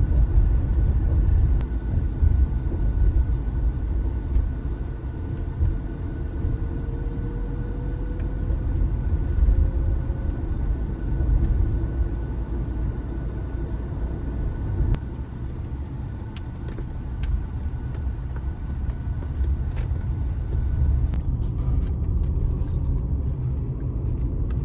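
Steady low rumble of a car driving, with road and engine noise rising and falling.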